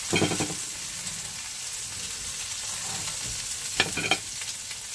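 Food sizzling steadily in a hot pan, with a few sharp knocks of a utensil or pan just after the start and two louder ones near the end.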